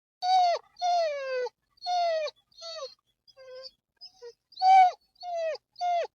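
A cat meowing over and over: about nine short, high calls, each dropping in pitch at its end, a couple of them faint.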